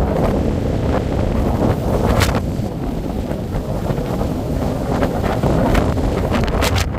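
Strong storm wind buffeting a phone's built-in microphone: a loud, steady rumble with brief harsher gusts.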